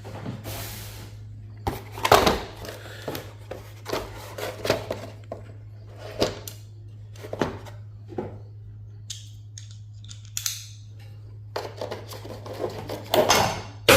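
Irregular metallic clicks and clinks of Torx screws being worked loose with a driver and small metal parts knocking on a server's steel chassis, over a steady low hum.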